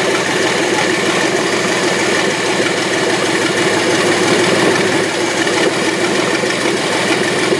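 1994 Chevrolet Astro's 4.3-litre V6 idling steadily and loud, running with its exhaust disconnected.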